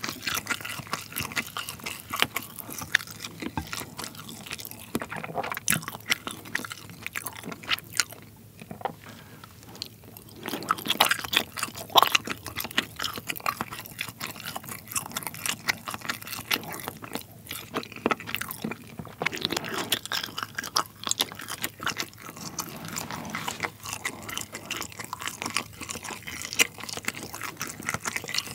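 Close-miked chewing of colored pull-apart string cheese, a dense run of small mouth clicks and crackles. The chewing thins out briefly about eight seconds in, then picks up again.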